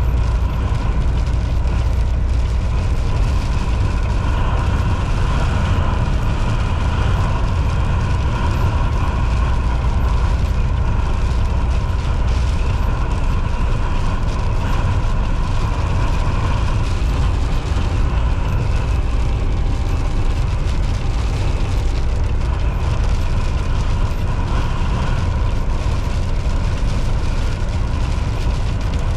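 Volvo VNL 760 semi truck cruising at highway speed: a steady engine drone and road noise over a constant deep rumble.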